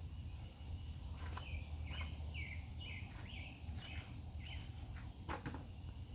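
A bird singing a quick series of about seven short, falling chirps over a steady low hum, with a few sharp clicks, the loudest a little after five seconds in.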